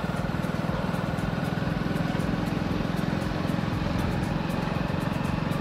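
Hero Splendor XTEC motorcycle's single-cylinder engine running steadily while riding along, with wind and road noise.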